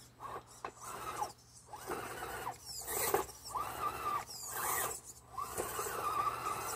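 RC crawler's Novak 55-turn brushed electric motor and geared drivetrain whining in repeated rising and falling bursts as the throttle is worked on the stuck, hung-up truck.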